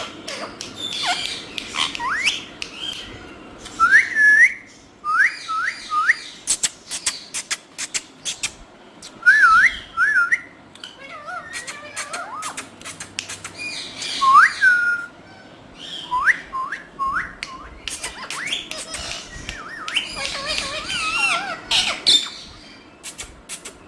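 Pet parrot whistling and chirping: short upward-sweeping whistles, often in quick runs of two or three, mixed with squawky chirps and sharp clicks.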